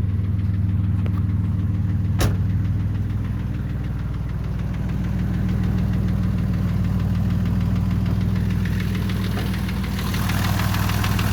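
1984 Oldsmobile 4.3L V6 diesel engine idling steadily after a fuel-system job (new water separator, fuel filter and fuel hoses). There is a single sharp click about two seconds in, and the engine sounds brighter and clearer near the end.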